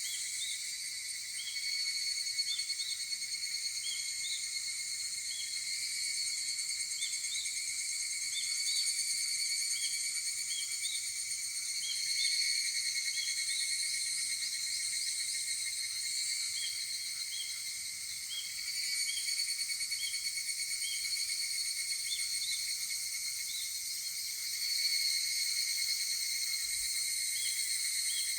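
A chorus of higurashi, the evening cicada (Tanna japonensis), with several overlapping calls that swell and fade every few seconds.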